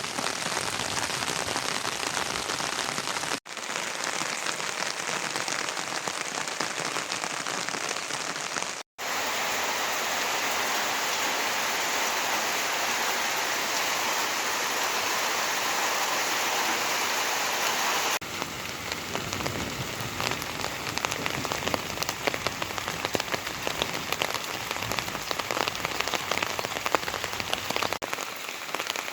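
Steady rain falling, with an even hiss that cuts out for an instant twice. A little past halfway the sound changes to a spikier patter in which separate drops stand out.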